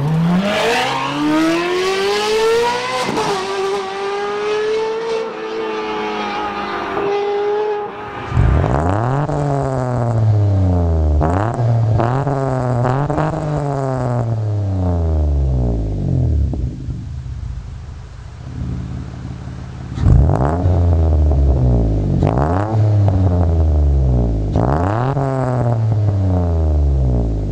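Car engines accelerating hard. The first one rises steadily in pitch. After a cut, a second engine pulls through the gears, climbing in pitch and dropping back at each shift, twice over with a quieter lull between the runs.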